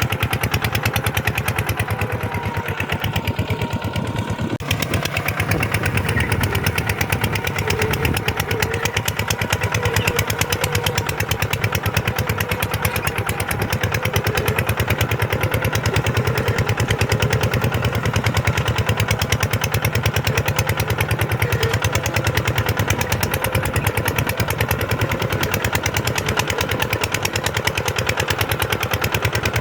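Kubota farm tractor's diesel engine running steadily with a rapid, even beat.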